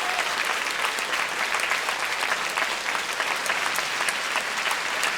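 Concert audience applauding steadily in a hall.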